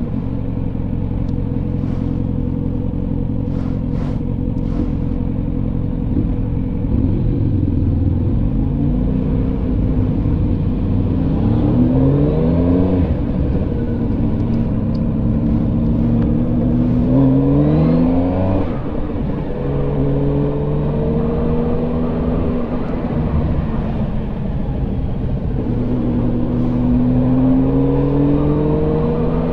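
A road vehicle's engine pulling away and accelerating several times over a steady road rumble. Its pitch climbs and then drops back again and again, like shifts up through the gears.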